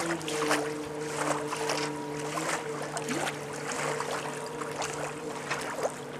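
Homemade Subaru amphibious car-boat under way on the water: a steady motor drone, with irregular splashes of water against the hull.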